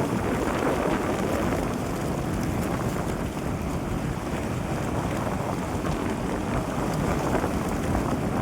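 Steady rumble of a vehicle driving along a forest road, with wind buffeting the microphone.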